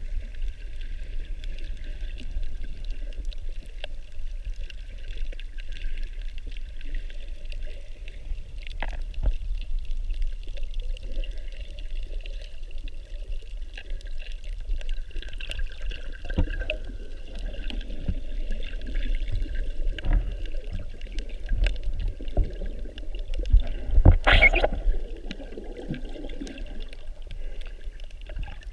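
Muffled water sloshing and rushing around a snorkeler's camera, over a steady deep rumble, with one louder splash about 24 seconds in.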